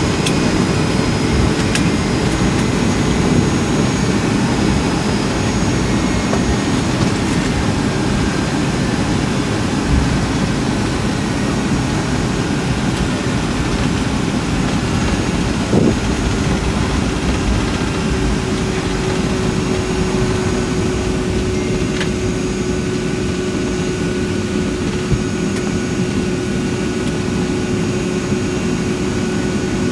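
Boeing 757-200 jet engines running at taxi idle, heard inside the cabin as a steady low rumble. About halfway through, a steady hum sets in.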